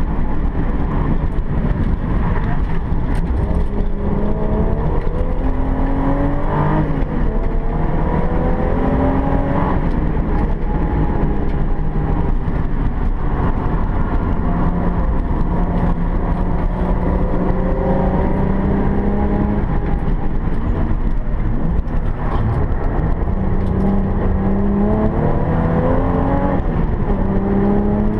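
Alfa Romeo 164 race car engine heard from inside the cabin at racing speed, its pitch climbing under acceleration and falling back several times, over steady low road and wind rumble.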